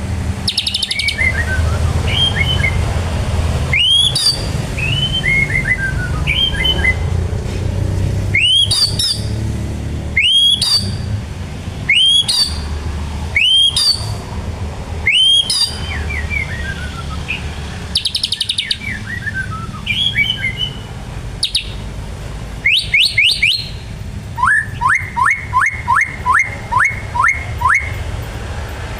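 White-rumped shama singing in energetic bursts: sharp rising whistles repeated every second or two, descending trilled phrases, and calls copied from the bar-winged prinia (ciblek). Near the end comes a run of quick rising notes, about two a second.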